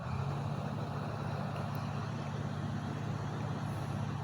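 Truck engine running steadily: a low, even drone with a fast throb.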